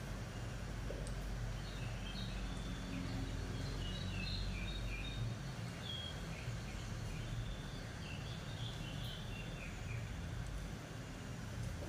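Birds chirping in short, high notes over a steady low rumble; the deepest part of the rumble drops away about five seconds in.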